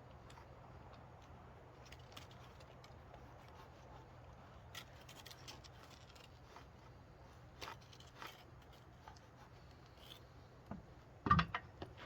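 Faint scattered scratching and light clicks of an outline being traced onto a wooden offcut, with one louder knock about eleven seconds in.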